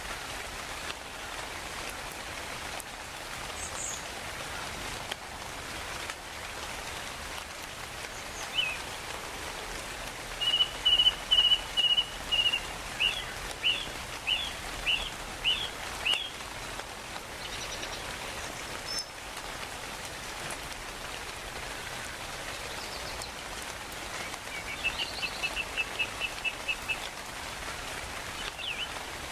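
Steady rain hiss with birds calling over it. In the middle comes a series of about a dozen loud repeated chirps over six seconds, and near the end a quick run of short notes, with scattered single chirps between.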